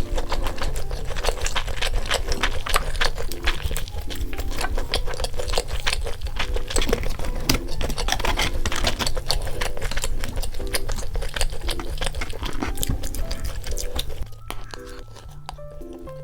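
Close-up crunching and chewing of crispy fried chicken, a dense run of rapid crisp clicks, over light, cute background music. The crunching stops about fourteen seconds in, leaving the music.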